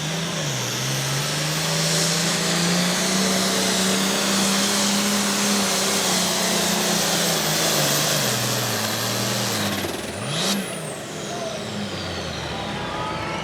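Pulling tractor's engine running flat out under load down the track, its pitch holding steady for about nine seconds. Around ten seconds in the engine drops off and a high whine falls away as it winds down at the end of the pull.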